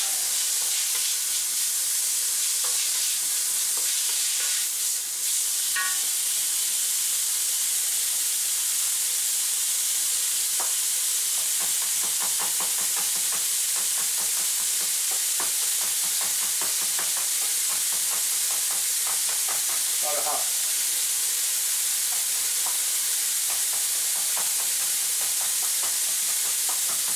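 Minced pork with onions and garlic sizzling in a wok, a steady frying hiss throughout. From about eleven seconds in, a run of quick knocks and clatter sounds over it.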